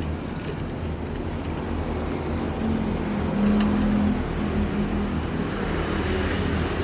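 Caterpillar 305.5E2 mini excavator's diesel engine running steadily as it works, a low drone with a higher hum that swells louder around three to four seconds in.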